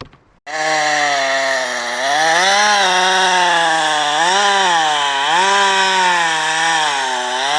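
Two-stroke chainsaw running hard while cutting wood. It starts abruptly about half a second in, and its engine pitch sags and climbs again several times as it cuts.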